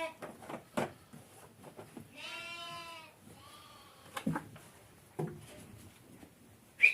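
A goat bleating once, drawn out for about a second, with a weaker short call just after it and scattered knocks and rustles around it.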